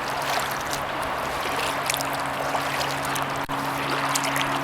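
Kayak paddle strokes: water splashing and trickling off the paddle blades, with a steady low hum underneath and a sharp tick about three and a half seconds in.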